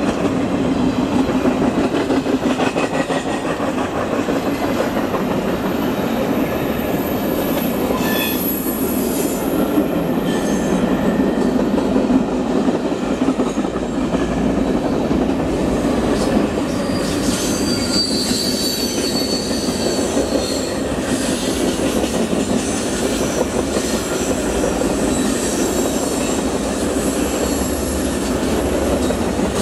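Freight cars rolling past on curved track: a steady rumble of steel wheels on rail, with high-pitched wheel squeal coming in a third of the way through and strongest in the second half, typical of wheel flanges grinding on a curve.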